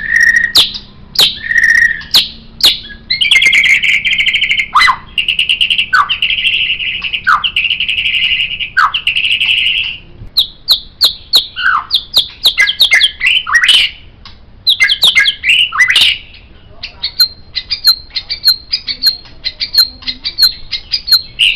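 White-rumped shama (murai batu) singing a varied song. It opens with sharp whistled notes, then gives a long buzzy, rattling trill crossed by falling whistles every second or so. Rapid mixed phrases follow, and near the end a fast run of short, high, thin notes.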